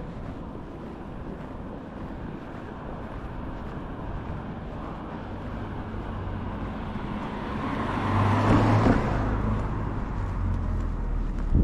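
A car passing close along a street, its engine and tyre noise building over several seconds to a peak about eight to nine seconds in, over steady street noise.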